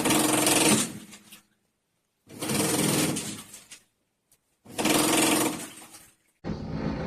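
Top-load washing machine's pulsator motor running in short bursts of about a second and a half, stopping dead between them, the stop-start agitation of a wash cycle. Near the end a different, duller steady sound takes over.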